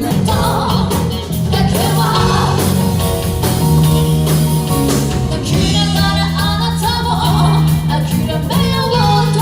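Live rock band playing with a singer, bass and guitar, with a steady beat.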